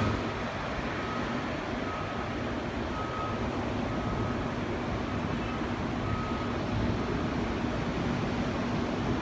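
Engine of heavy earth-moving equipment running steadily at a distance, a low drone under a wash of wind and surf noise.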